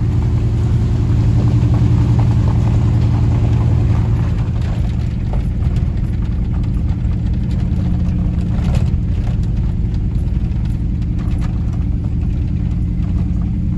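Truck engine running steadily at low revs as the truck climbs a hill slowly, heard from inside the cab.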